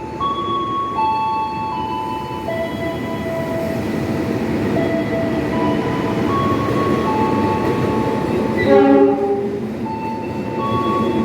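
Indonesian train running through a station without stopping: the rumble of wheels on rail builds up, with a short loud horn blast about nine seconds in. A chime melody of steady stepping tones plays over the station loudspeakers.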